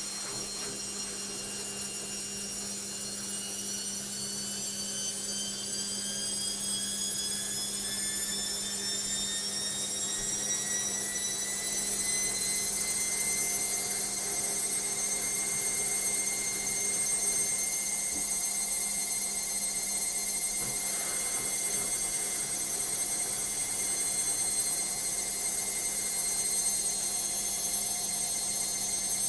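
Logik washing machine's motor whining as the drum speeds up into the final spin: the high-pitched whine rises steadily for about thirteen seconds, then holds at top spin speed over a steady low hum.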